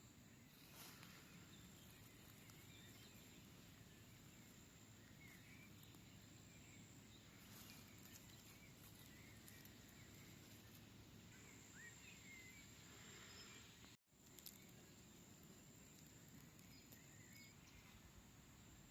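Near silence: faint outdoor ambience with a few faint, short bird chirps scattered through it, and a momentary drop to silence about two-thirds of the way through.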